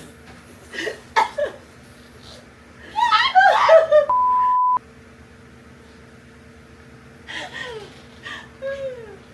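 Laughing and exclaiming voices, cut short about four seconds in by a loud, steady single-pitch beep under a second long, the kind of bleep tone edited in to censor a word. A few brief vocal sounds follow near the end, over a faint steady hum.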